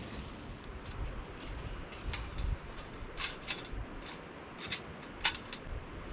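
Firewood burning in a small fire stand, crackling with irregular sharp pops, the loudest about five seconds in, over a low rumble.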